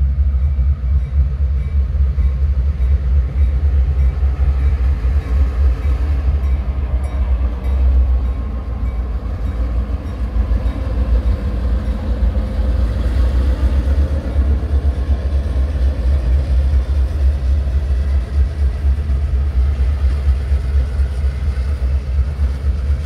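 Freight train of covered hopper cars rolling past with a steady low rumble and wheel noise. About halfway through, a pair of Grand Trunk Western diesel locomotives placed mid-train go by, their engines adding to the rumble.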